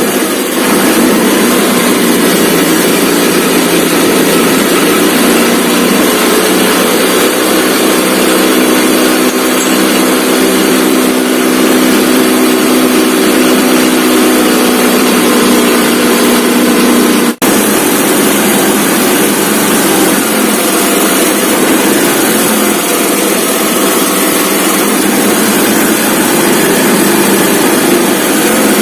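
Hero Pleasure scooter's single-cylinder four-stroke engine running steadily at raised revs, throttle held open so the engine flush added to the oil circulates through the engine. The sound cuts out for an instant about two-thirds of the way through.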